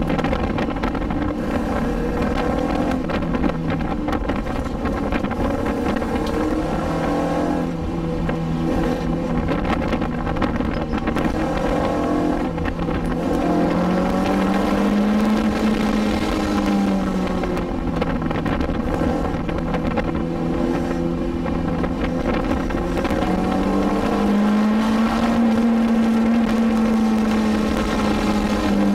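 Toyota MR2 engine heard from inside the cabin on a downhill canyon drive, running steadily with the revs climbing and easing back twice, around the middle and near the end, over road and wind noise.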